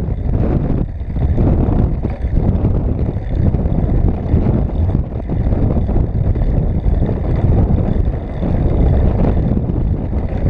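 Strong, gusty wind buffeting the microphone: a loud, low rush that swells and eases every second or two.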